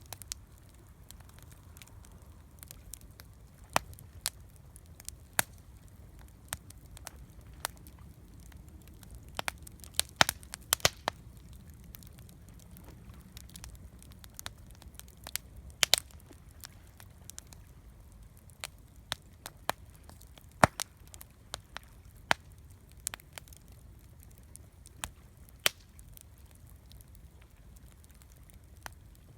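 Wood campfire crackling, with irregular sharp pops and snaps, some much louder than others, over a low steady rumble.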